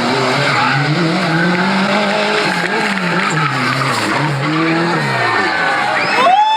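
Rally car engine running hard, its revs rising and falling over a steady hiss of tyres on the stage. Near the end a higher engine note swoops up sharply and then slowly falls away.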